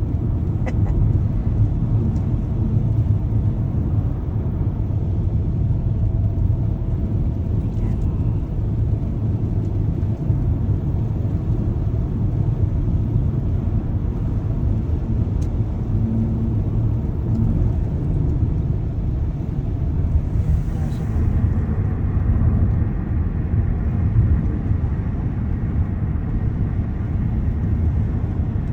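Car driving on a snowy road: a steady low rumble of engine and tyre noise, with a brief hiss about two-thirds of the way in.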